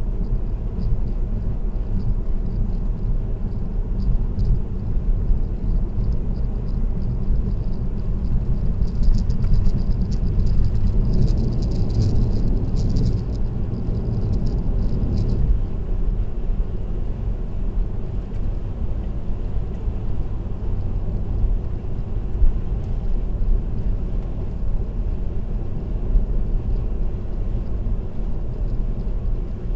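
Steady low road and engine rumble of a car cruising on an expressway, heard from inside the cabin. A light, quick rattle of something loose in the car comes and goes from about nine to sixteen seconds in.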